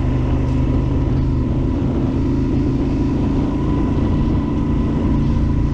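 Yamaha Super Ténéré XT1200Z's parallel-twin engine running steadily while riding an off-road trail, its note shifting slightly about two seconds in.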